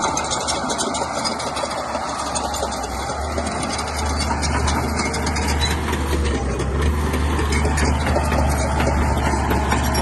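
Diesel engine of a Shantui bulldozer running steadily, with a deep hum, growing slightly louder about halfway through.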